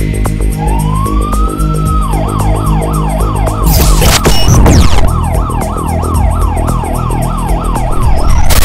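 Fire engine's electronic siren starting up: one wail rising over about a second, then switching to a fast yelp of about three up-and-down sweeps a second, over the steady rumble of a diesel engine. A brief loud rush of noise cuts across it about four seconds in.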